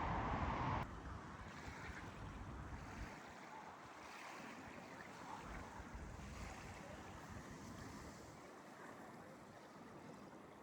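A louder noise cuts off abruptly about a second in. It gives way to faint outdoor ambience: a steady hiss of wind and water lapping, with a low rumble that fades out about three seconds in.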